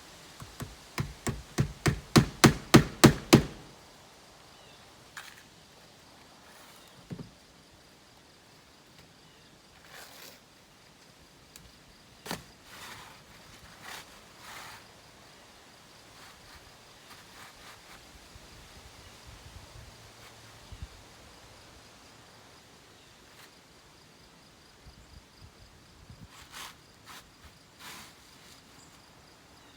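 A hand hammer driving a nail: about a dozen quick strikes, about four a second, growing louder, then stopping. Scattered faint knocks and taps follow.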